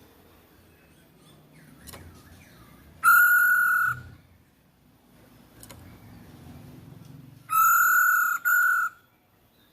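A poksay hongkong laughingthrush giving loud, level whistled calls, used as a provocation sound to make a silent bird answer: one call about a second long, then near the end a longer call followed at once by a short one. Faint chirps from other birds run underneath.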